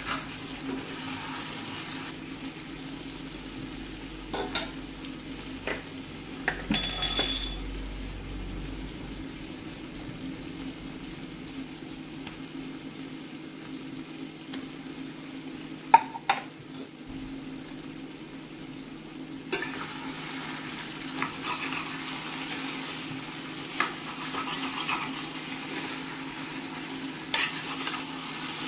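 Mutton curry sizzling as it fries in a cast-iron kadai, with a spatula stirring and scraping against the pan. A few sharp clinks and knocks, one of them ringing briefly about seven seconds in, and the stirring grows busier in the second half.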